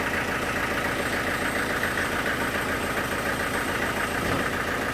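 Sawmill machinery running steadily under engine power, with a fast, even pulsing.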